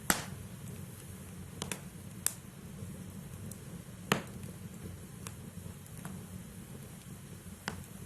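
Logs burning in a fireplace: a steady low rumble of flame with sharp crackles and pops from the wood. The loudest pop comes right at the start, a close pair follows about one and a half seconds in, and more come every second or two.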